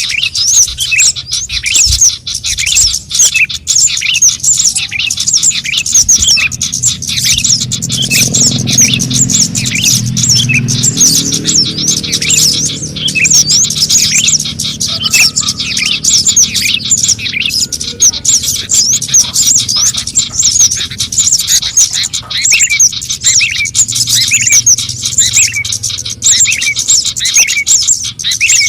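Scarlet-headed flowerpeckers (cabe jawa) calling in a dense, continuous stream of rapid, high, sharp chirps, the kind of call recording used to lure the birds. A low rumble swells in about a third of the way through and fades out after the middle.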